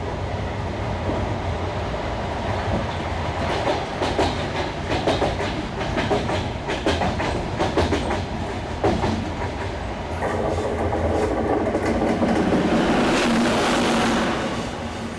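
Passenger train's wheels running on the track, with a steady rumble. A quick run of sharp clicks from the wheels comes in the middle, and a louder, steadier rushing noise sets in about ten seconds in, then eases near the end.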